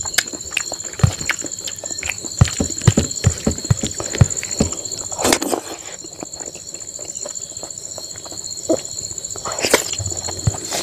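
Close-miked eating sounds: wet chewing and lip smacks while eating rice and greens by hand, heard as a run of sharp irregular clicks, densest in the first half. Two short breathy bursts come about halfway and near the end.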